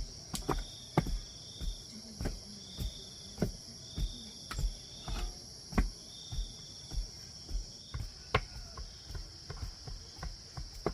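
Digging tool striking soil in a steady rhythm, a dull thud roughly every 0.6 seconds, over the constant high drone of insects with short repeated chirps.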